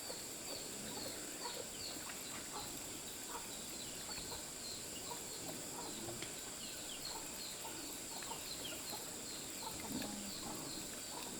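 Chickens clucking, over a steady high insect drone and a short high chirp repeating about three times a second.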